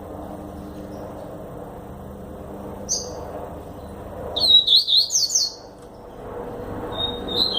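A coleira (double-collared seedeater) songbird singing: a short note about three seconds in, then a quick run of high chirps a second later, and another phrase starting near the end, over a steady low background hum.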